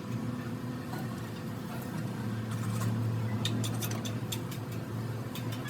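A steady low machine hum that swells briefly in the middle, with a quick run of light clicks or taps near the end.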